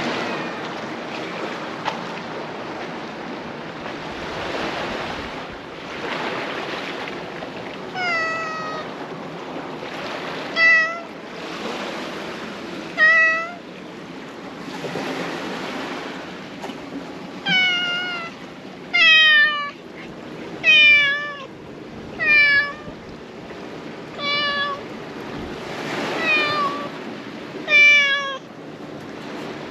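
Domestic cat meowing repeatedly: about a dozen short calls, each falling in pitch, starting about eight seconds in and coming closer together in the second half, over the steady wash of sea surf against the breakwater.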